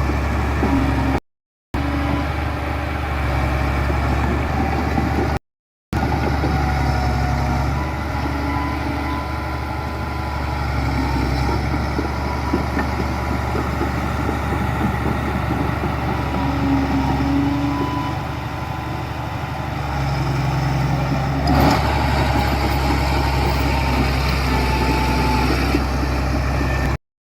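Diesel engines of heavy construction machinery running steadily, broken by a few very short cuts to silence. There is a single knock a little after two-thirds of the way through.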